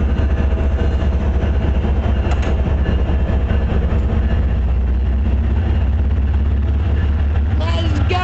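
MBTA commuter rail diesel locomotive's engine running steadily: a deep, unbroken rumble with a constant hum over it.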